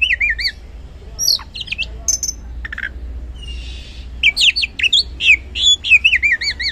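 Oriental magpie-robin (kacer) singing a varied song of whistled slurs and chirps, with runs of quick repeated down-slurred notes near the start and again near the end, and a short lull in the middle.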